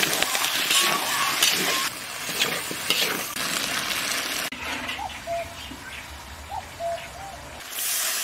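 Pork belly and potato slices sizzling and being stirred in a large iron wok, with scattered clicks of the spatula. The sizzle suddenly drops about halfway through, where a few short bird chirps come through, and turns loud again near the end.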